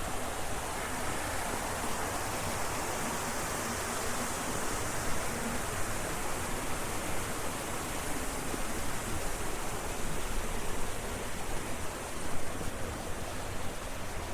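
Steady rush of water flowing in a rice-terrace irrigation channel.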